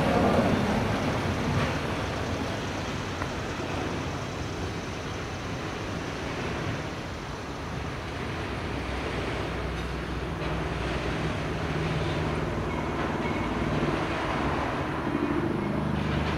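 Train rolling by on the tracks, its rumble easing off over the first several seconds. A low steady engine drone comes in about halfway through.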